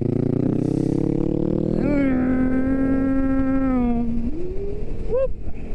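Motorcycle engine pulling steadily, its pitch slowly rising as it accelerates. About two seconds in, a voice holds a long wordless note for about two seconds over the engine, and a short vocal sound comes near the end.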